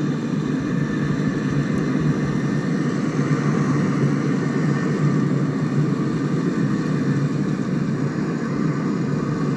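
Steady low rumble of jet aircraft engines across the airfield, with no sudden events.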